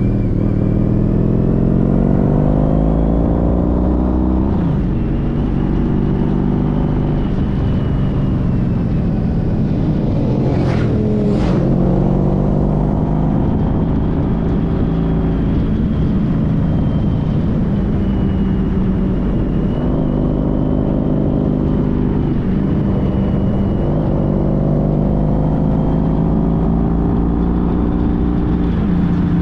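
Honda CTX1300's V4 engine running under way, its pitch climbing and dropping several times over steady road and wind noise. Two brief hisses sound about eleven seconds in.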